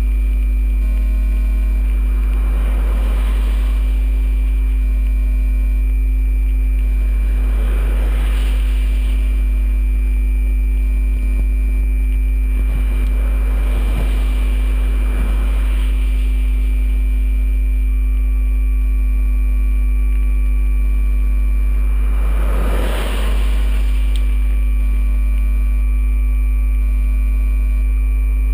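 A GoPro camera's audio fault: a loud, steady electrical hum with constant whining tones above it, plus faint on-off beeping tones, all laid over whatever the camera is filming. Soft swells of noise pass through now and then, the largest about two-thirds of the way in.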